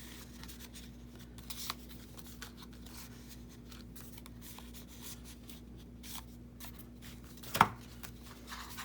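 Paper and card being handled and shifted on a journal: scattered light rustles and soft taps over a faint steady hum, with one sharper tap about seven and a half seconds in.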